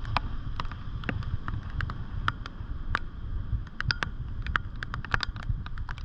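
Raindrops tapping on a GoPro's waterproof housing as irregular sharp clicks, over a low rumble of wind on the microphone.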